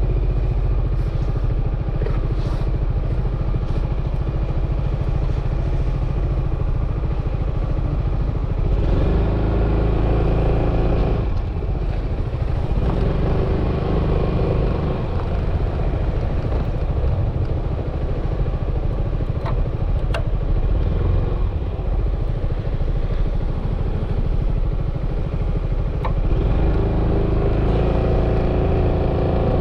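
Yamaha XMAX 300 scooter's single-cylinder engine running under way, with steady wind and road noise. The engine pitch rises with throttle about nine seconds in, again a few seconds later, and near the end.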